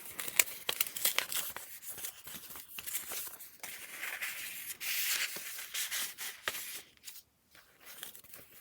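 Paper pages of a handmade junk journal being turned and handled: crisp rustling and crinkling with small taps, then a longer sliding rustle about four to six seconds in, growing quieter near the end.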